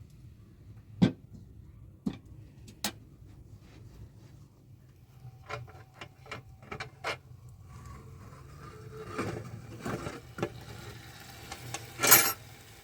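Scattered sharp knocks and clicks of hard objects being handled, then rustling scrapes with a louder scrape near the end.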